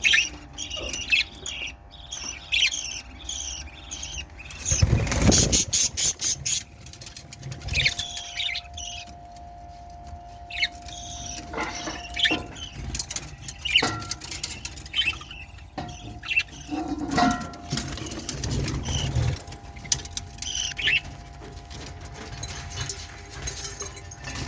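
Australian parrots in a breeding cage chirping and squealing in short, repeated calls over a steady low hum, with a loud rustling burst about five seconds in.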